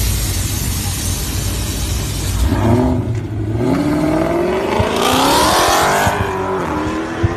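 Dodge Charger V8 exhaust accelerating hard: a loud rumble, then the engine note climbs, dips briefly about three seconds in, and rises steeply until about six seconds in before settling to a steadier, lower note.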